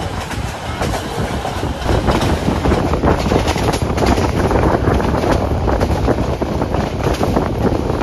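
Passenger train running at speed, heard from on board: a steady rush of wheels on the rails with irregular clattering and rattling. It gets louder about two seconds in.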